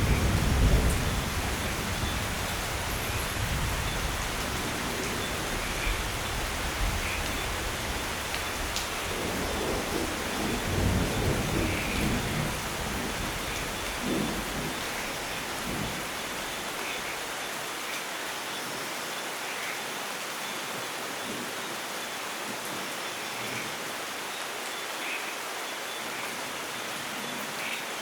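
Steady rain with thunder rumbling: a rumble fading away at the start, another swelling around ten seconds in and a short one just after, then rain alone for the second half.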